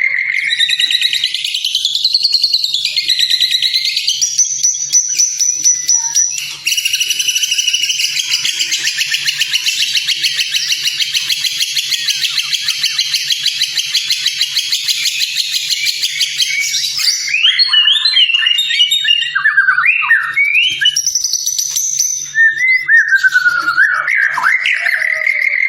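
White-rumped shama (murai batu) song from a training recording: varied, gliding whistled phrases, broken by a long, rapid trill of repeated notes lasting about ten seconds from a quarter of the way in, before the varied whistles return.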